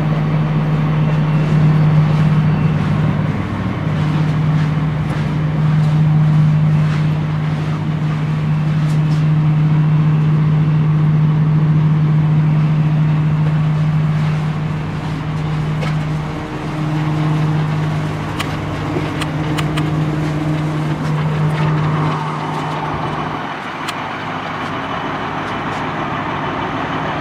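Engine of a 1999 Blue Bird TC2000 school bus running with a steady low hum; about 22 seconds in the hum falls away to a quieter engine sound.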